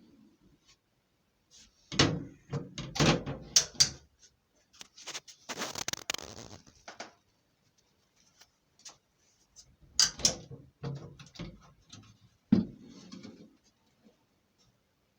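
Sharp knocks and clatter of tiling work in a small room, with a longer scraping sound about five to seven seconds in.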